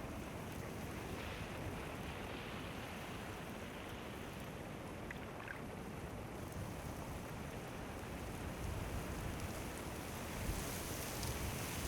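Steady outdoor wind and water noise: wind rumbling on the microphone over the wash of sea waves, a little louder near the end.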